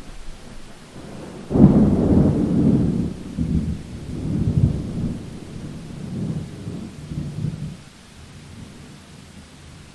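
A thunderclap breaks suddenly about a second and a half in and rolls on in several fading swells for about six seconds, over a steady hiss of rain.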